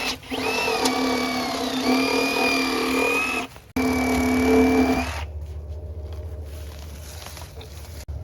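Power drill running under load, boring through wood with a steady whine. It stops briefly about three and a half seconds in, runs again, and stops about five seconds in.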